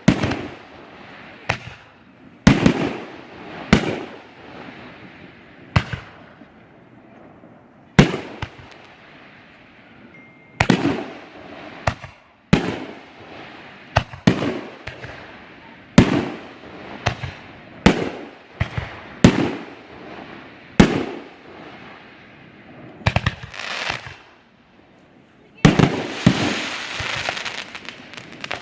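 Aerial firework shells bursting one after another, a sharp bang about every one to two seconds, each followed by a fading echo. Near the end a dense crackling volley of many small reports.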